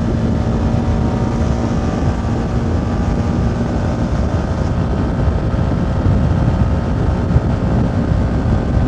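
CFMoto 300NK single-cylinder engine running at a steady cruise, heard through heavy wind buffeting on the helmet microphone, which covers much of the engine sound.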